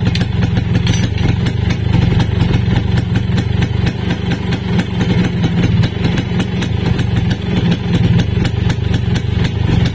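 Two-stroke motorcycle engine idling steadily on a newly fitted Suzuki A100 ignition coil, being test-run after the coil swap.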